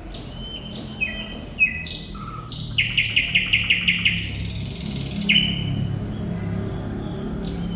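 Thrush nightingale singing: a run of short whistled notes, then a fast rattle of about nine notes, then a harsh rasping note about four seconds in.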